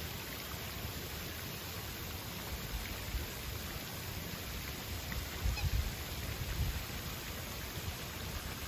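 Garden water fountain, water falling and splashing steadily, with a few stronger low rumbles a little past the middle.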